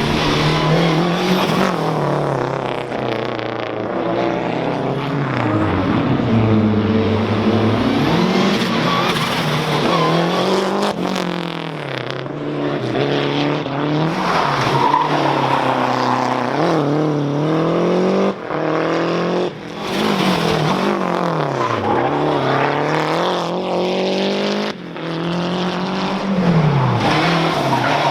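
Lancia Delta HF Integrale Group A rally car's turbocharged four-cylinder engine, driven hard, its pitch rising and falling over and over as it accelerates through the gears and slows for corners. There are a few brief sudden lifts, late in the run.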